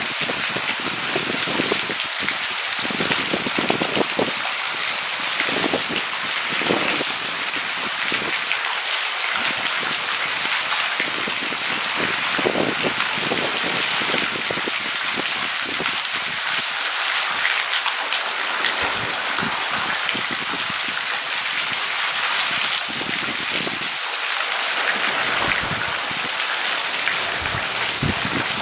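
Heavy thunderstorm rain falling steadily as an even hiss, with irregular heavier splashes of drops landing close by.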